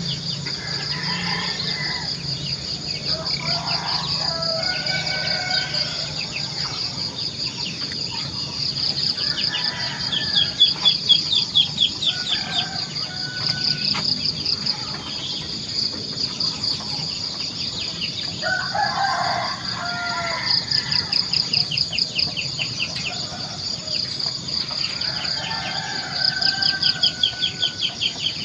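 Roosters crowing several times with hens clucking, over a steady high-pitched pulsing trill that runs throughout.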